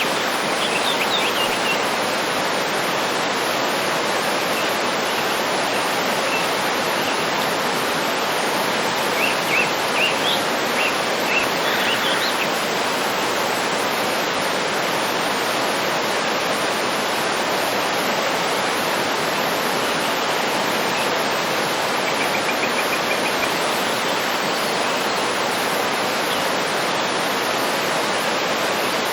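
Waterfall rushing steadily, with a few faint bird chirps and a short trill over it.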